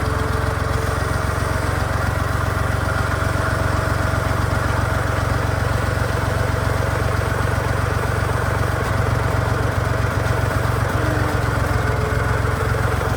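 Massey Ferguson MF40 tractor engine running steadily at an even speed.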